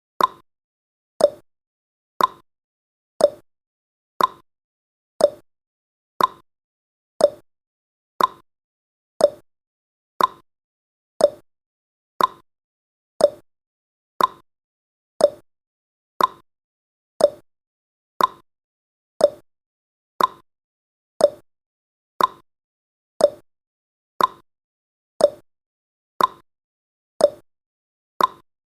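Countdown timer's clock-tick sound effect: a short, sharp tick once a second, evenly paced.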